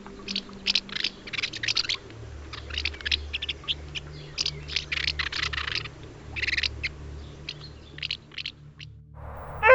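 A bird's harsh, raspy screeching calls, many short ones in irregular runs. Near the end the sound cuts and a different honking call begins.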